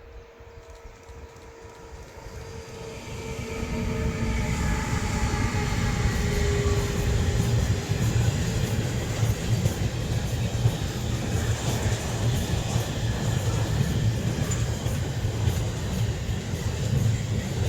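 Train approaching and passing: it grows louder over the first few seconds, then a steady loud rumble of wheels on rails with clickety-clack.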